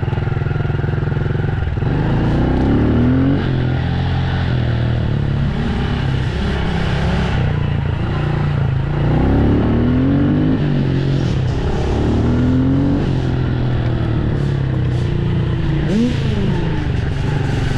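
Dirt bike engine under throttle, shifting up through the gears: the pitch climbs and then drops at each shift, several times over.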